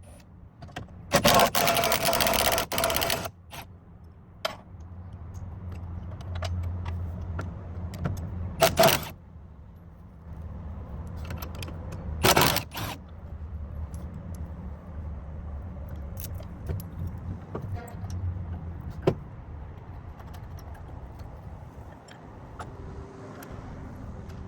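Metal parts clanking and rattling in a few loud bursts, with smaller clicks between, over a low, steady engine rumble.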